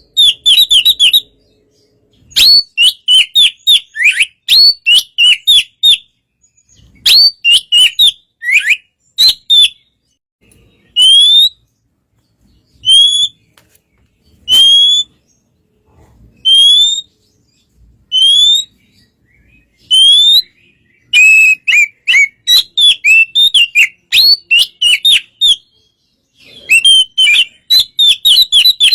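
Oriental magpie-robin singing: loud, clear whistled phrases, some of them quick runs of several notes and others single rising slurred whistles, with short pauses between phrases. A calm song of the kind used to draw other magpie-robins into answering.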